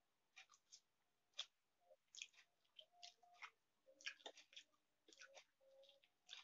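Faint chewing and mouth smacks from eating instant noodles, with scattered soft clicks of a metal fork against a steel plate.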